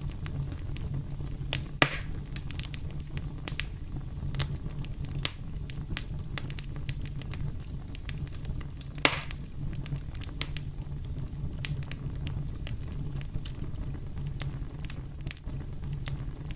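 Campfire crackling: scattered sharp pops and snaps over a steady low rumble of burning, with two louder pops about two seconds and nine seconds in.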